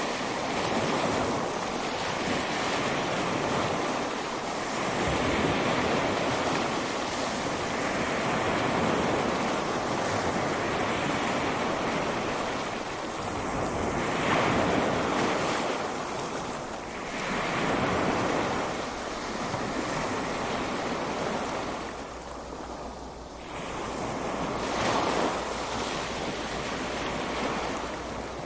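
Ocean waves breaking and washing on a beach, the surf swelling and easing every few seconds, with wind in the background.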